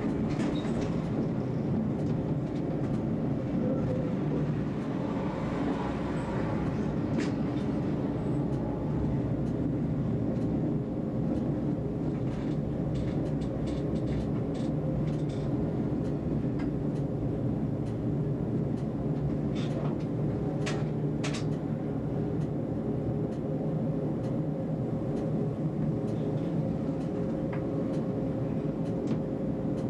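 Tram running along the track, heard from the driver's cab: a steady rumble with a faint even hum and scattered short clicks and clacks from the wheels and rails.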